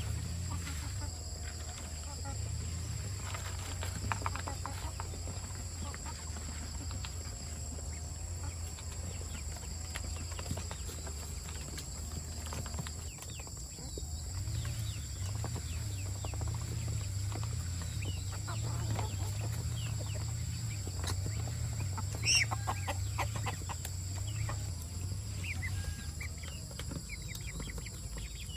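Chickens clucking at intervals over a steady low rumble and a steady high background drone.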